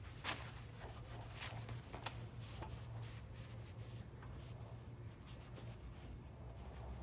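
Hand work on a carbon-fibre rigger: light rubbing and scraping with scattered small clicks, the sharpest about a third of a second in, over a steady low hum.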